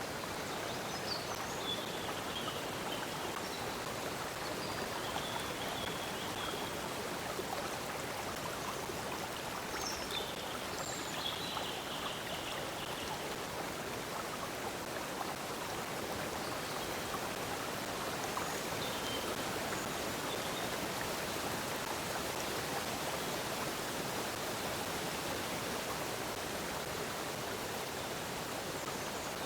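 Stream water flowing steadily. A few faint high bird chirps come near the start and again about ten seconds in.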